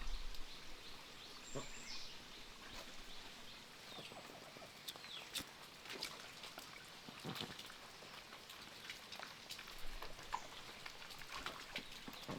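Faint outdoor sounds: scattered small clicks and taps, with a few short high chirps.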